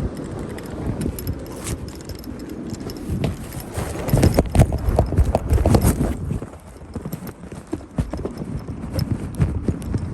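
Bicycle rattling and clattering with quick irregular knocks as it rides over a rough surface, loudest and busiest in the middle.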